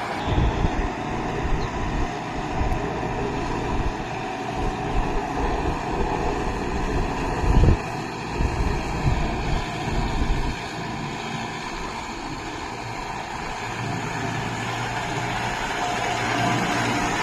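Kubota MU5502 tractor's diesel engine running under load, working through deep mud, with irregular low thumps for about the first ten seconds, then a steadier, slightly quieter drone.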